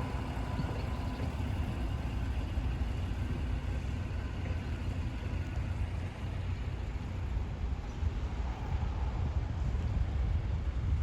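Mercedes-Benz O307 city bus's diesel engine running, a steady low rumble heard from inside the passenger cabin.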